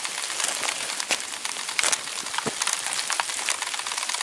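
Steady crackling patter of rain falling on dead leaves, mixed with footsteps through wet leaf litter.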